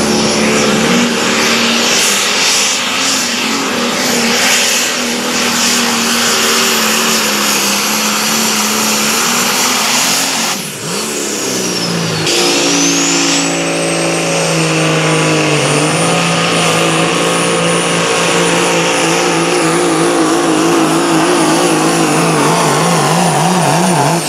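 Engine of a competition pulling vehicle running hard under load, with a high whine over it. The engine drops off briefly about halfway through, then picks up again. Its pitch wavers up and down near the end.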